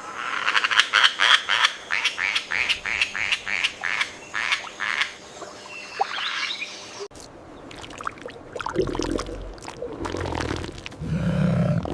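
Frog croaking in a quick series of calls, about three or four a second, for the first six seconds or so. After a break about seven seconds in, a different, lower-pitched sound follows.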